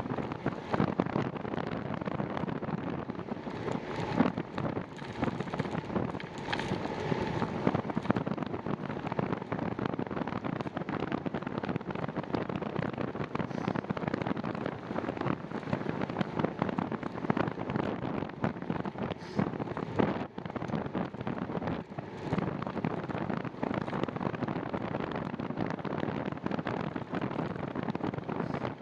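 Wind buffeting the microphone of a camera on a moving bicycle, over steady tyre noise, with frequent small clicks and knocks as the bike goes over the trail surface.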